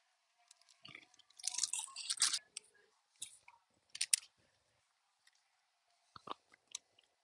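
Close-up chewing and crunching of a crispy fried snack eaten off a skewer, in short irregular bursts with quiet gaps between, and a plastic bag crinkling in the hand.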